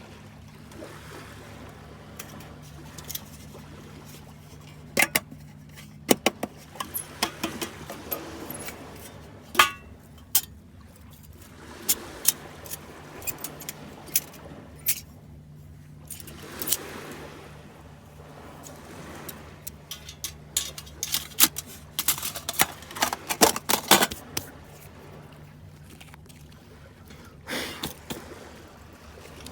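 Irregular clicks, knocks and light metallic clinks of gear being handled, busiest in two spells, over a steady low hum.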